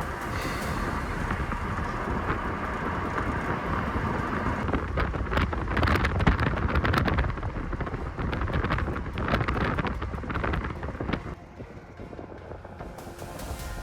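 Storm wind buffeting the microphone: a loud, rough rushing with crackling gusts, heaviest in the middle, easing about eleven seconds in.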